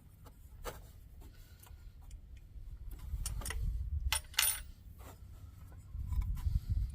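Hand tools and small metal parts clinking and tapping in irregular sharp clicks, with a brighter run of clinks about four seconds in, while nuts are worked off at the front of the engine. A low rumble rises underneath near the end.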